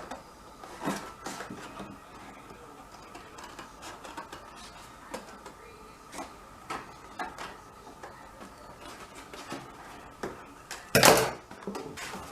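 Thick card stock being handled and folded on a table: scattered light taps and rustles, with one louder knock about eleven seconds in.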